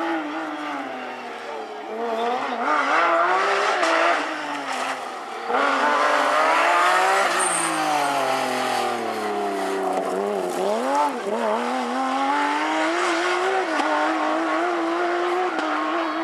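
Porsche rally car's flat-six engine driven hard on a stage: revs climb and fall through gear changes, peaking about halfway, then a few quick rises and falls in pitch about ten seconds in before settling into a steadier pull.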